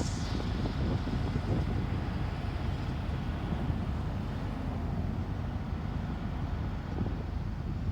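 Street sweeper running, a steady low engine rumble with the even hiss of its sweeping.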